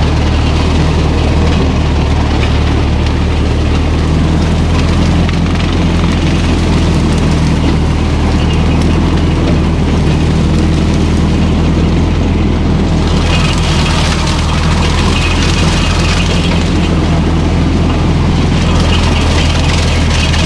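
Old Ferguson tractor's engine running steadily under way, with an even low exhaust note.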